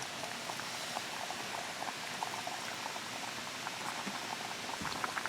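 Food cooking: a steady hiss with many small, irregular popping bubbles.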